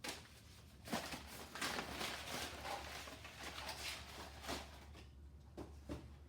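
Scratchy rustling and handling noise for a few seconds, followed by a few light clicks, over a steady low hum.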